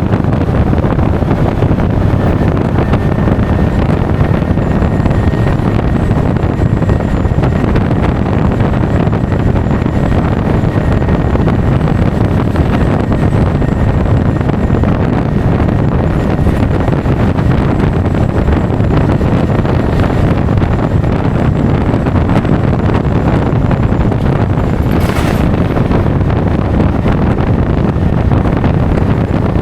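Steady, loud wind rush over an action camera's microphone while riding a Honda Forza 350 scooter at speed, with road and engine noise blended into it. A brief hissing burst comes near the end.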